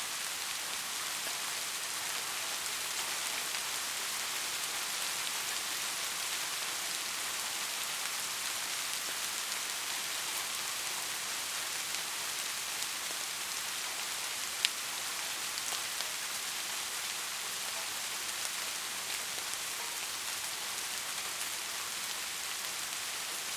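Steady rain falling, an even hiss made of many fine drops, with one sharp, louder tick about two-thirds of the way through.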